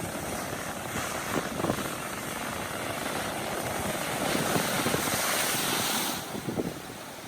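Ocean waves surging against volcanic rock: a hissing rush of surf that builds to its loudest in the middle and falls away fairly suddenly near the end.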